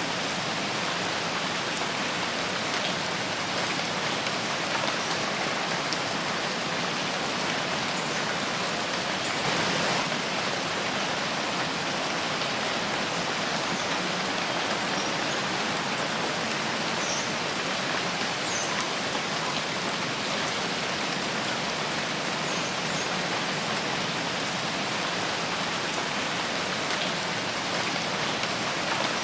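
Steady rain falling in a forest, an even hiss of drops with scattered individual drip ticks.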